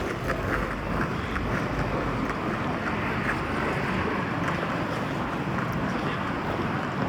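Steady outdoor street ambience: a constant rushing noise like wind on the microphone, with a few faint light clicks in the first second or two.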